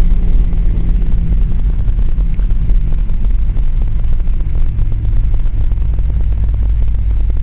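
Loud, steady low rumble inside a Boeing 737-800's cabin during landing: the airliner's engines and airflow, with the rough texture of the runway.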